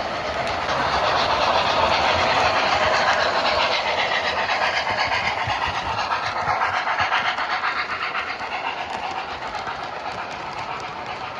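A train running past on rails, with a fast, even clatter that grows louder over the first couple of seconds and then slowly fades.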